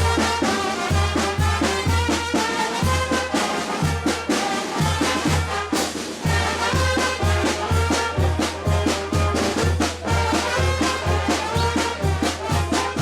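Brass band music, trumpets and trombones playing over a steady bass drum beat of about two beats a second.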